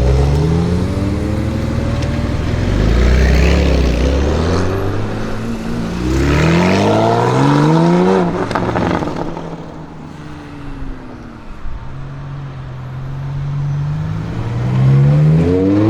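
Tuned Audi RS7 Sportback C8's twin-turbo 4.0 V8, with catless downpipes, accelerating hard several times, its pitch climbing with each pull and dropping back between them. A cluster of sharp exhaust pops comes about eight and a half seconds in, and the engine is quieter for a moment before the last hard pull.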